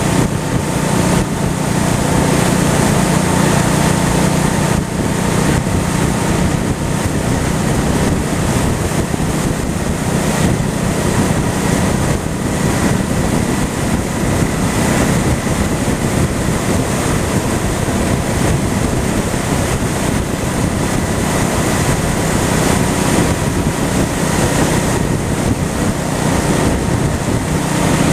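Honda Shadow's V-twin engine running steadily at cruising speed, mixed with heavy wind buffeting on the microphone.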